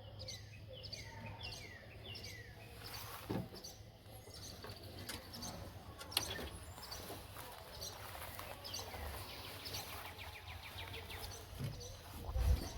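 Wild birds chirping repeatedly in short falling calls over outdoor background noise, with a single knock about three seconds in and a low thump near the end.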